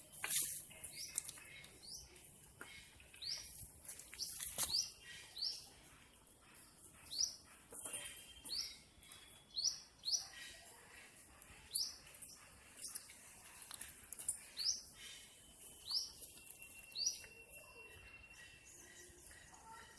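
A small bird calling with short, high, rising chirps, about one a second, stopping a few seconds before the end. Two sharp clicks come shortly after the start and about four and a half seconds in.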